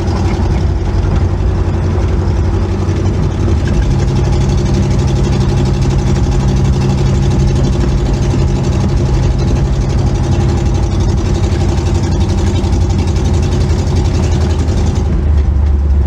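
1962 Chevrolet Impala's 283 small-block V8 running through old cherry bomb mufflers while driving, a steady engine note that shifts about four seconds in and again near the end, when the low rumble grows.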